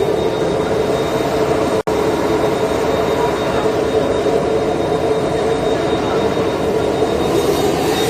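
Steady cabin noise of a jet aircraft on the ground: a constant hum and rush of air, with a thin high whine. It cuts out for an instant about two seconds in.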